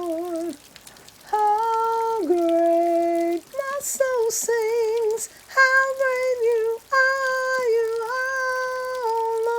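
A high voice, a woman's, sings unaccompanied in a series of long held notes with a wide vibrato. The phrases are separated by short breaths, with a brief pause about half a second in.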